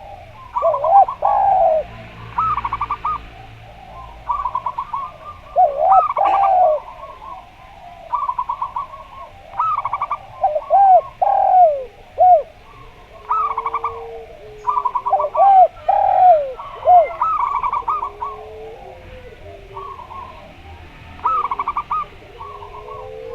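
Doves singing over one another: zebra doves (perkutut) repeat bursts of fast, stuttering high notes and short arched coos. In the second half, lower drawn-out coos from a derkuku dove join in.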